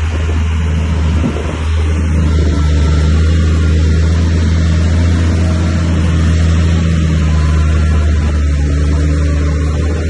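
Heavy earthmoving machine's diesel engine running under steady load, a deep, even drone that builds slightly over the first couple of seconds and then holds.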